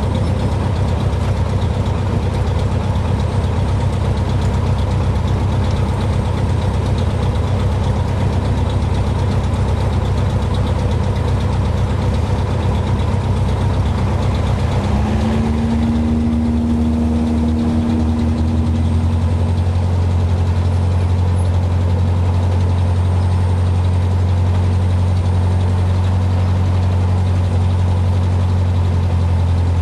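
Cessna 150's piston engine running steadily, heard from the cockpit. About halfway through, a tone rises slightly and fades over a few seconds, and then the engine settles into a smoother, steadier low hum.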